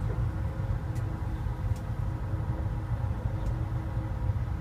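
Steady low rumble and faint hum inside a train driver's cab, with a few faint light ticks.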